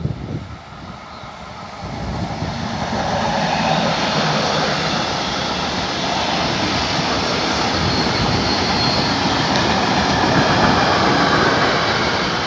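Freight train passing behind an electric locomotive: the rolling noise builds over the first few seconds, then the wheels of a long string of goods wagons run by on the rails in a steady loud rumble and hiss.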